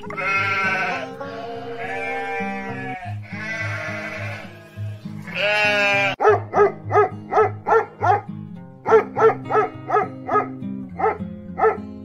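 Livestock bleating: four long, wavering bleats, then a quick run of short calls at about three a second. Background music with a steady beat plays underneath.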